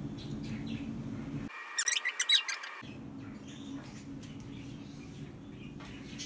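A small bird chirping: a quick run of sharp, high chirps about two seconds in, over a steady low hum that drops away during the chirps.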